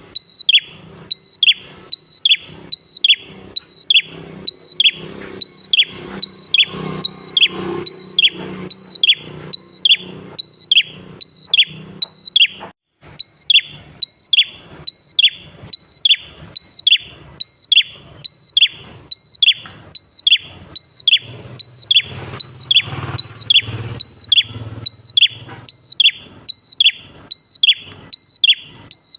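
Prenjak klawu, a prinia, singing a loud, fast repeated call of about two notes a second. Each note is a short high whistle that drops sharply in pitch. There is a brief break about 13 seconds in.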